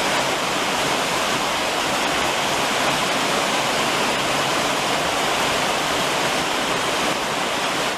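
Steady summer rain beating on a roof: a dense, even hiss with no breaks.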